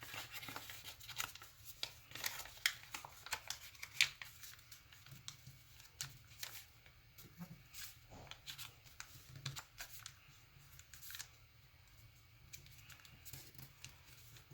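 A sheet of origami paper being folded and creased by hand: irregular crisp rustles and crinkles, busy for the first few seconds, then sparser.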